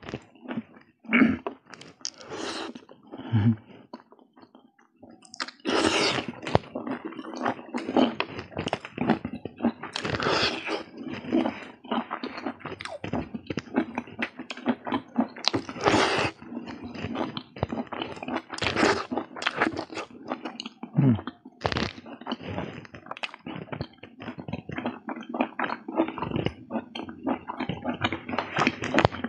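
Close-miked chewing and mouth sounds of a person eating momos, noodles and rice by hand: quick, irregular smacks and clicks. Sparse for the first few seconds, then steady, dense chewing from about six seconds in.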